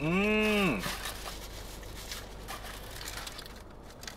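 A person hums an appreciative "mmm" that rises and falls for under a second, then chews a Korean corn dog, with faint scattered clicks and crunches of eating.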